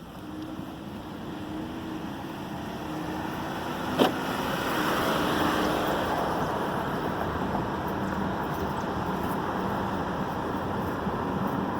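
2011 Ford Edge driving with a side window down: tyre and road noise building as the car gathers speed, then holding steady, with one sharp click about four seconds in.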